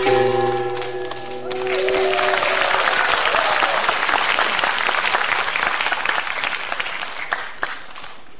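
Held final notes of Korean traditional music end about a second and a half in. Audience applause follows and fades near the end.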